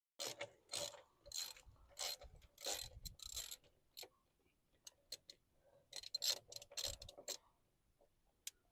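Faint metal clicks and scrapes from a crescent wrench working the bolts of an excavator's underside access pan, in two bursts of rapid clinking with a lull between.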